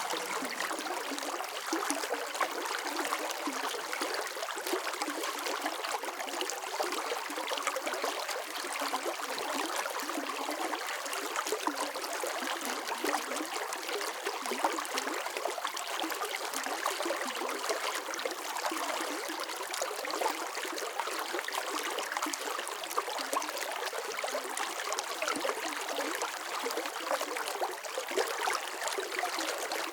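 Running water: a steady stream flowing and trickling, with a dense bubbling texture and no pauses.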